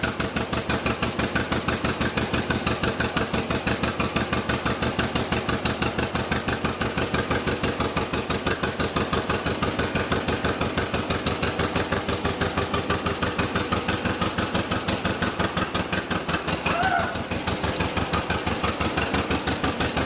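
1955 John Deere 40 S two-cylinder tractor engine running with its steady, even putt-putt beat.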